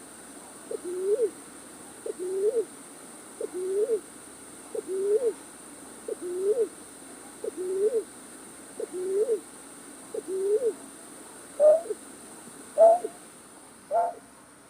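A night bird's hooting call, played as a lure for trapping night birds, repeated about every one and a half seconds: each call is a short note followed by a low note that rises and falls. Near the end the calls change to shorter, higher notes.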